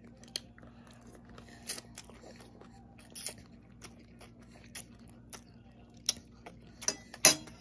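Close-up eating sounds from a person chewing a mouthful of linguine with shrimp and tomatoes: scattered wet mouth clicks and smacks, with a louder one near the end.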